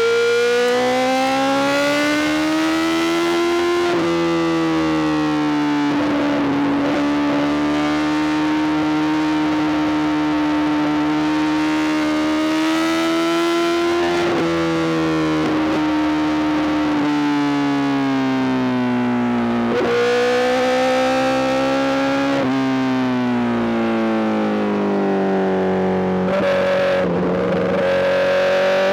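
Honda CBR1000RR-R SP's inline-four engine through a full Arrow GP exhaust, running under way with its note rising and falling as the throttle changes. The pitch jumps abruptly several times as gears change.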